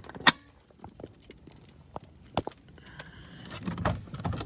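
A few sharp clicks and light rattles of things being handled inside a parked car, the loudest just after the start and another about two seconds in; a low rumble builds near the end.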